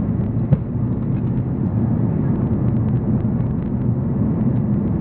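Steady low cabin drone of an Airbus A340-300 airliner in flight, heard from inside the cabin, with a single short knock about half a second in.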